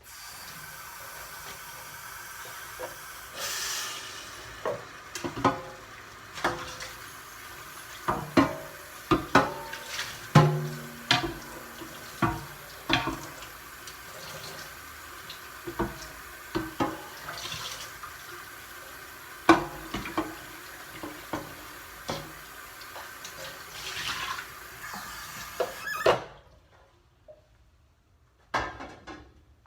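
Kitchen tap running into a sink while a big pan is washed, with frequent clanks and knocks of the pan against the sink. The water shuts off abruptly near the end, followed by a few more clinks.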